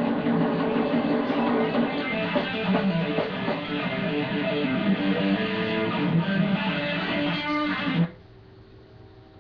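Electric guitar played loud through an amplifier and speaker cabinet. The playing stops abruptly about eight seconds in, leaving a few notes ringing on faintly.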